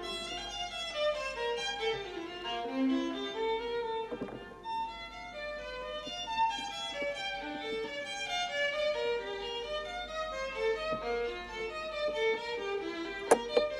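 Violin music playing a quick, running melody, with a single sharp click near the end.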